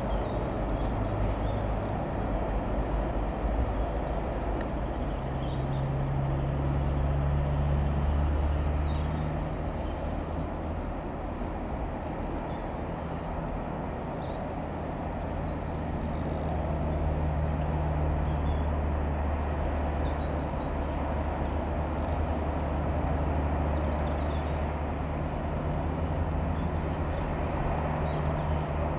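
Single-engined Cessna 172 Skyhawk's four-cylinder piston engine droning as the aircraft circles overhead, growing louder and fading away twice.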